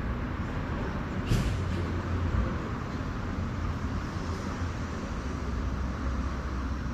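City traffic: a steady low rumble of passing road vehicles, with a short high hiss about a second and a half in.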